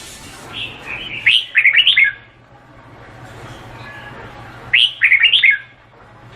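Red-whiskered bulbul singing two short warbled phrases, each about a second long and about three and a half seconds apart.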